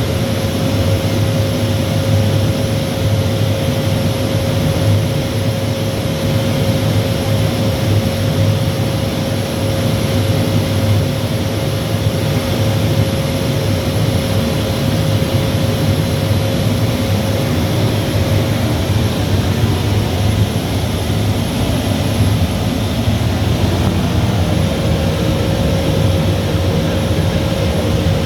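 Bosch steam boiler plant running: a loud, steady, even roar with a constant hum tone over it that fades out for a few seconds about two-thirds of the way through.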